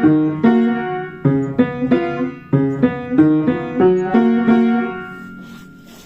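An old piano being played: a simple tune of notes and chords struck about two or three a second, the last chord left to ring and fade away about five seconds in.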